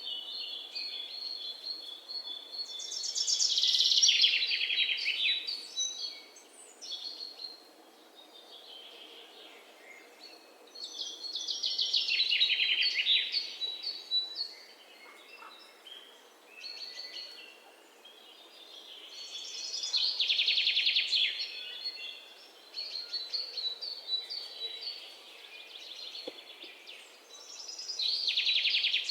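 Birds singing: a loud, fast trilling phrase repeated four times, about every eight seconds, over steady high chirping.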